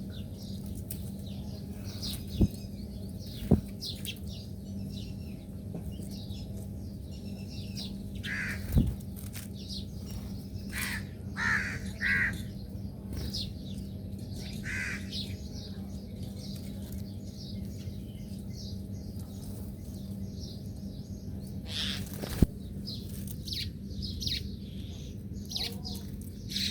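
Several wild birds chirping and calling in short notes, with a run of louder calls in the middle. A steady low hum lies under them, and a few sharp clicks stand out, the loudest near the end.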